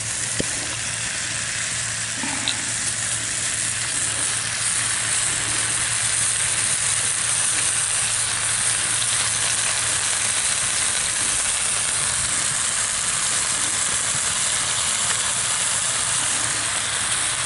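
Chicken thighs sizzling steadily in a cast iron Dutch oven over hot coals, a continuous frying hiss that grows slightly louder a couple of seconds in.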